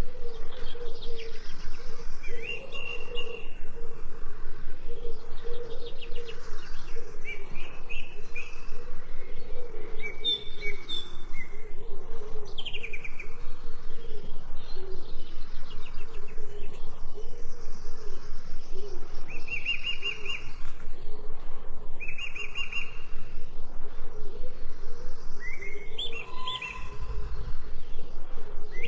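Small songbirds chirping and trilling in short, repeated phrases over a steady, rapidly pulsing background sound.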